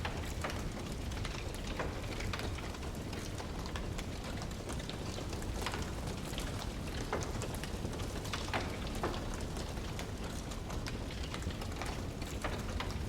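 Wood fire crackling: a steady low rush of burning logs with irregular sharp pops and snaps scattered through, a few louder ones.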